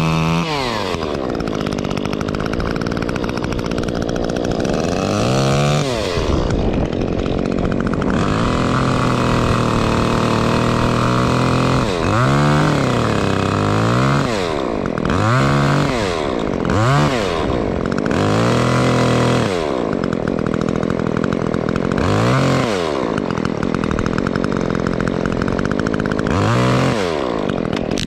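Stihl MS 150 T top-handle chainsaw, its muffler opened up, revving up and down again and again. It is held at full throttle for a few longer stretches, as when cutting.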